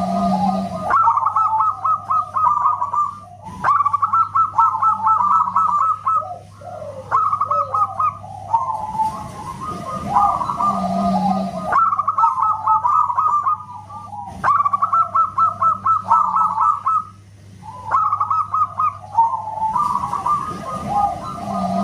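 Zebra doves (perkutut) cooing in repeated phrases of rapid, pulsing notes, one phrase after another with short gaps, over a steady low hum.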